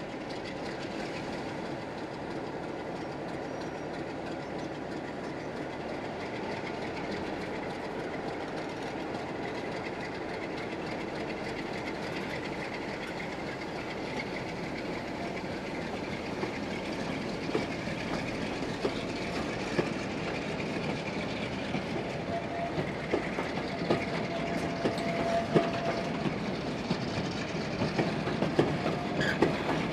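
Diesel-hauled train running on the rails, a steady rumble that slowly grows louder, with wheel clicks over the rail joints coming more often in the second half.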